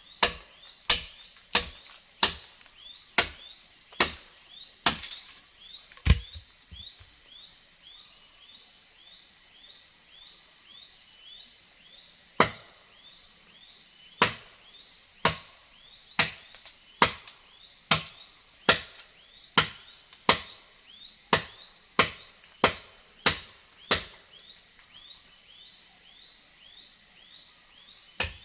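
Wood being chopped with a blade, sharp strikes about once a second, with a pause of several seconds in the middle. Insects chirp steadily in the background.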